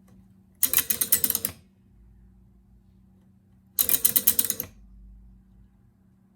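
Electromechanical pinball mech board, freshly powered: its relays and stepper units clatter in two rapid bursts of clicks about a second long each, the first about half a second in and the second a few seconds later, over a faint steady hum.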